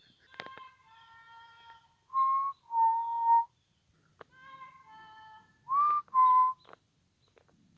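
A person whistling a signal, two pairs of loud, pure two-note whistles, each pair a slightly higher note then a slightly lower one. Fainter, reedier tones answer in the gaps between them.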